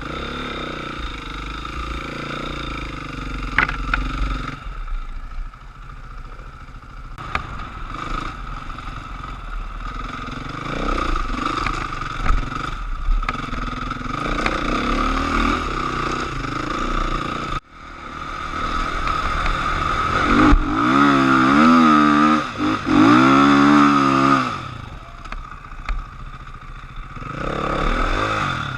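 Enduro dirt bike engine running and revving hard, its pitch rising and falling with the throttle. The sound breaks off suddenly about two-thirds of the way through. After that comes the loudest part, several quick revs up and down in a row.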